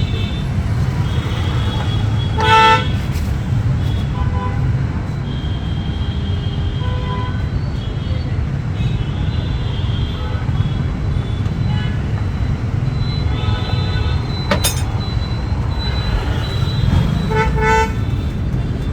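Street traffic: a steady low engine rumble with vehicle horns honking. A loud honk comes about two and a half seconds in, another near the end, and fainter horns sound in between.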